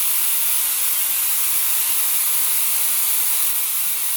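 Steady, even hiss from a running high-voltage one-wire transmitter setup: the spark gap firing and high-voltage discharge.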